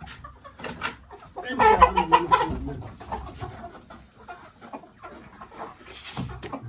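Domestic chickens clucking and calling, with one loud burst of squawking about a second and a half in and quieter clucks around it.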